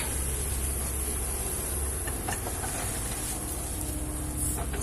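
Kobelco excavator's diesel engine running steadily with a low rumble and a constant high hiss, with a few light knocks from the work.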